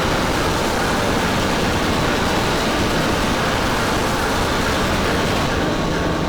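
A loud, dense wall of distorted noise from many band tracks stacked on top of each other in a mashup, with almost no distinct notes or beat.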